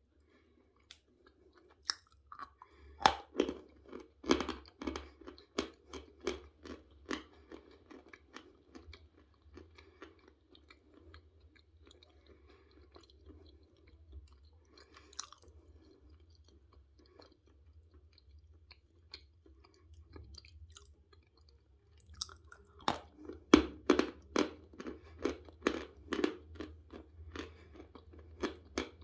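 Close-up crunching and chewing of pieces of natural Vasilpolye chalk: a run of crisp bites and crunches near the start, softer chewing through the middle, and another run of crunches near the end.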